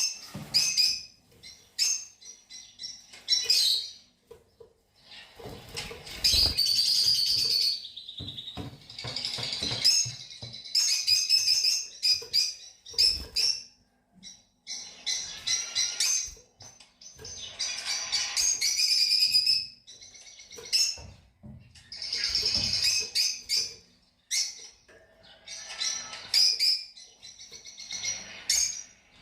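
Fischer's lovebirds chattering, with repeated shrill bursts of rapid chirping that last a second or two each and are separated by short pauses.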